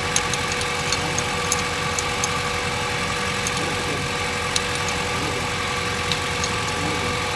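Honda Civic inline-four engine idling steadily, with light ticks at irregular intervals. Its distributor ignition timing is set retarded, by the owner's own account.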